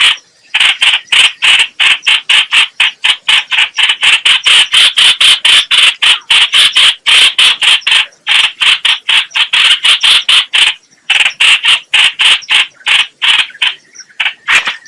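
Call of the bird known in Vietnam as trao trảo (chao chảo, hoành hoạch): a long, fast run of loud, evenly spaced short notes, about five a second, with brief pauses about eight and eleven seconds in, thinning out near the end. It is a continuous lure call of the kind played to draw the same species into a trap.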